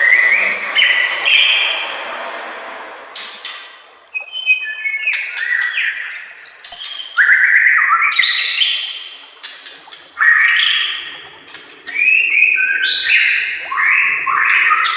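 White-rumped shama (murai batu) singing: fast, varied phrases of stepped whistled notes mixed with sharp clicks, coming in bursts with short pauses between them.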